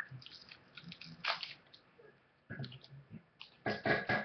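Hi-Chew chewy candy being chewed: irregular, soft chewing sounds, loudest near the end.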